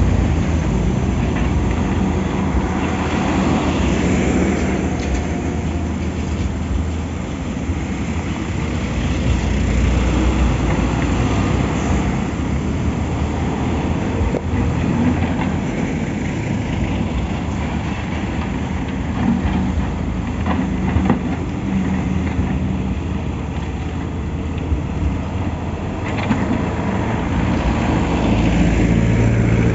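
Heavy diesel engine of an excavator at work, running continuously and swelling and easing in loudness, with a few short metallic knocks.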